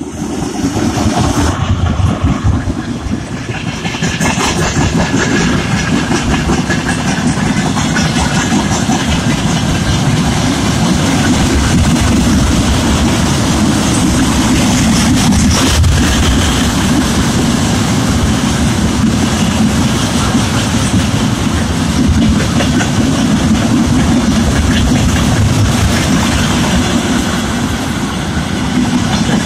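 Freight train hauled by a 2M62UM diesel locomotive passing close by: a loud, steady rumble of wagons and wheels on the rails, which swells over the first few seconds and then holds.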